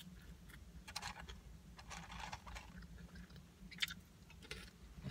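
Chewing and mouth sounds of someone eating fries from her fingers, coming and going, with one sharp click a little before four seconds in.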